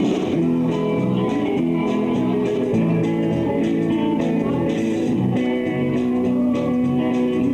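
Live band playing a guitar-led instrumental passage, with guitars over bass and drums.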